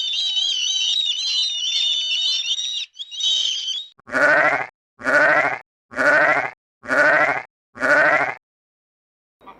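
High-pitched warbling chirping for the first few seconds, then a sheep bleats five times, about a second apart.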